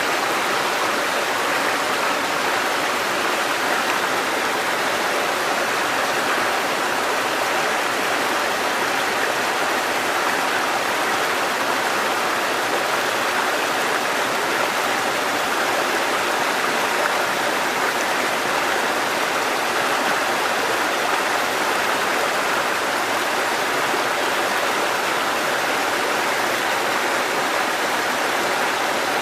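Water cascading over rocks in a mountain stream: a steady, even rushing.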